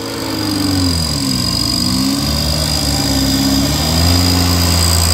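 Off-road 4x4's engine under load on a steep dirt climb, its revs dipping and rising twice as the throttle is worked, then holding steady near the end.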